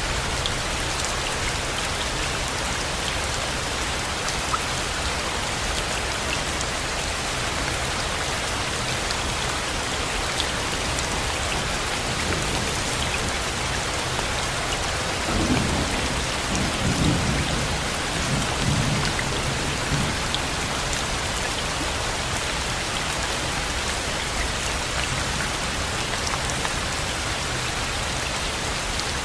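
Steady rain. About halfway through, a low rumble of thunder rolls for a few seconds.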